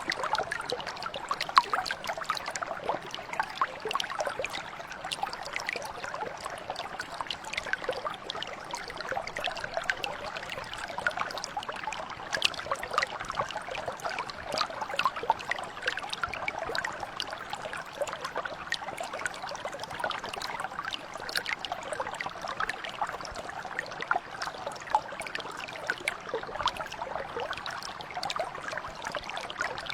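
Mountain brook flowing over rocks: a steady babbling wash of water, thick with small splashes and trickles.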